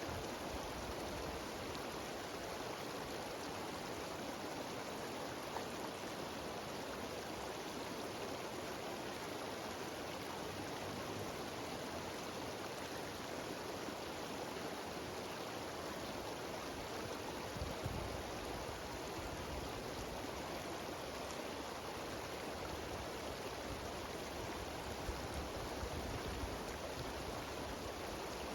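Mountain stream cascading over rocks in a series of small waterfalls: a steady rushing of water, with a few brief low thumps of wind on the microphone.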